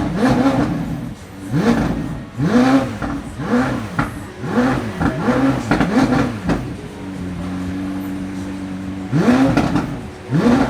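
McLaren Senna's twin-turbo V8 revved in a string of short blips, about one a second, each rising and falling in pitch. It settles to a steady idle for a couple of seconds past the middle, then gets two more blips near the end.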